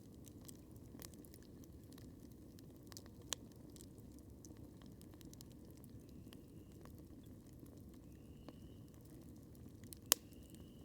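Wood campfire crackling, with scattered small snaps over a steady low rumble of burning and two louder pops, one about three seconds in and a sharper one near the end.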